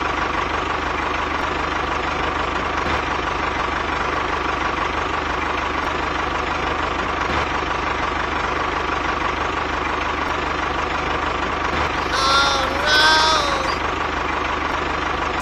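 A mini tractor's engine runs steadily, with a constant whine over its even drone. Near the end, two short pitched sounds rise and fall over it.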